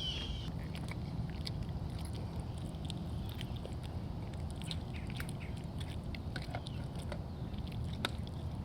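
Bobcat chewing and biting into meat, a string of irregular wet clicks and crunches.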